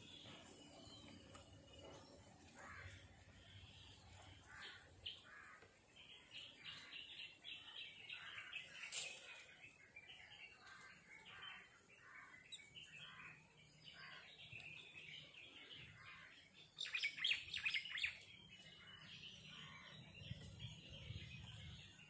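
Small birds chirping: a string of short, repeated calls, with a louder flurry of rapid chattering notes a little after halfway and a single sharp click about nine seconds in.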